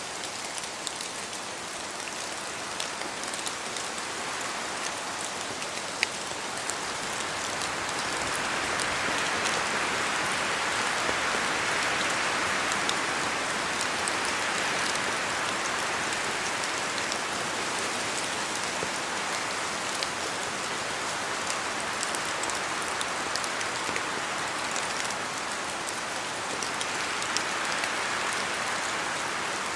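Steady rain in a forest, with separate drops ticking down from the trees. The rush swells louder for several seconds about a third of the way in and again near the end, as wind gusts through the trees.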